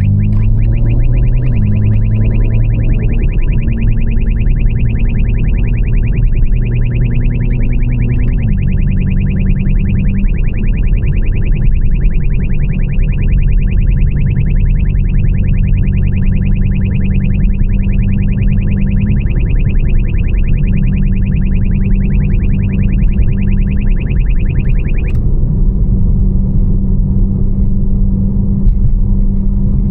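Railroad crossing warning bell ringing in a fast, even repeat, cutting off suddenly about 25 seconds in. Under it, the BMW M4's catless twin-turbo inline-six runs steadily at low revs.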